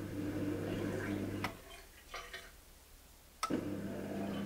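A dishwasher starting its cycle: a steady low hum runs, stops about a second and a half in, then comes back on with a sharp click about three and a half seconds in, with faint ticking in the gap.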